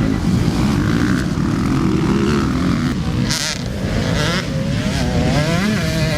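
Motocross dirt bike engines running, a dense mechanical drone whose pitch wavers up and down in the second half.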